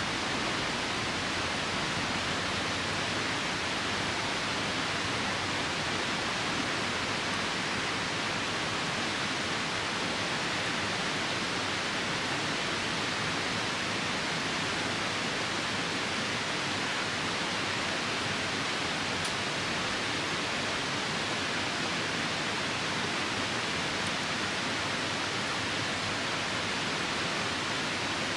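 Steady rushing of a nearby river mixed with rain, an even wash of water noise that does not change.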